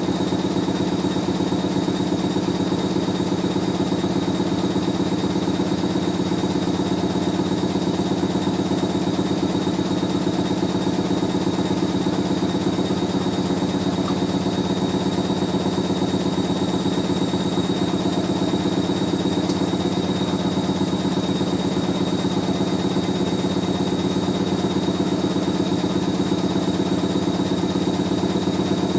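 Hoover A3060 Electronic 1100 washing machine spinning, its motor giving a steady, even hum with a constant high whine.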